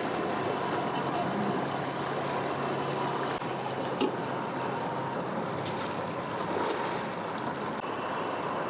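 Boat motor running steadily at the dock under wind and water noise, with a single knock about four seconds in.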